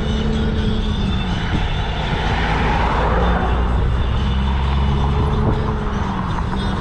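Steady low rumble of traffic and wind on the camera's microphone while cycling, with a motor vehicle passing that swells and fades about halfway through.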